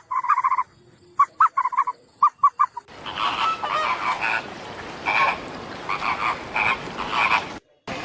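Frog croaks: short rapid pulsed calls in three quick groups, then several croaking calls repeating over a hissy background until they cut off sharply near the end.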